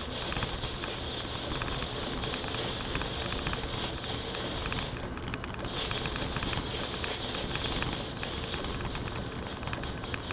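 Metal lathe running, with a steady hiss from the cutting pass. The hiss drops out for a moment about five seconds in, then carries on.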